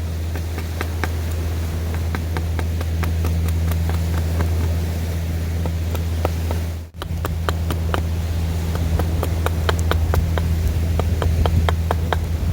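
Wood fire crackling with irregular sharp pops over a steady low rumble; the sound cuts out for an instant about seven seconds in.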